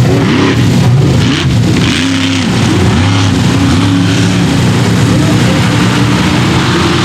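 Mega truck engine running hard, its pitch rising and falling again and again as the throttle is worked.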